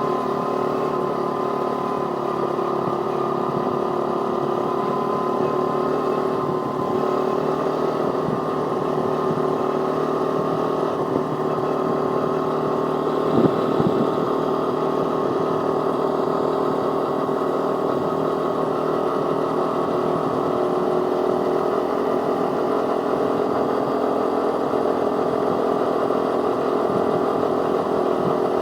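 Pit bike engine running steadily while riding at an even pace, with one brief louder moment about halfway through.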